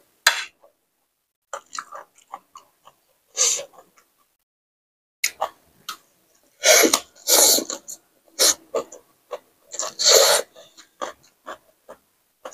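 Close-up eating sounds: a person biting into and chewing a mouthful of fresh leafy greens wrapped around food, in loud, irregular crunches. There are near-silent gaps between them, and the densest chewing comes in the second half.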